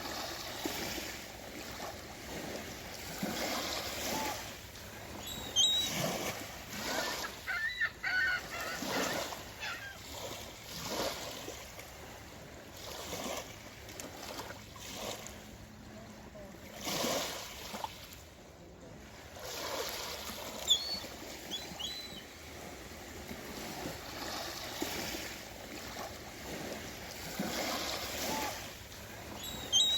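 Swans on the water, splashing and dabbling as they feed, with a few short, high bird calls now and then.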